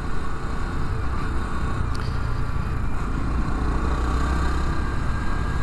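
Honda Trail 125's air-cooled 125cc single-cylinder engine running steadily under way, with wind rumbling over the microphone.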